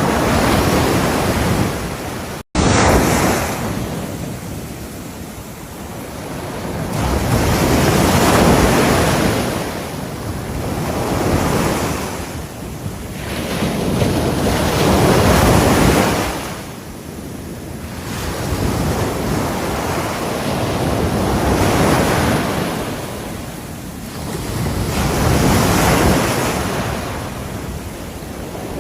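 Ocean waves breaking on a shore, surging and washing back in swells every few seconds. The sound cuts out for a split second about two and a half seconds in.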